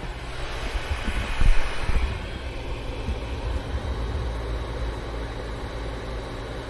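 Portable spot cooler running with its compressor on: a steady rush of fan air over a low hum, with a few soft low knocks about a second and a half in.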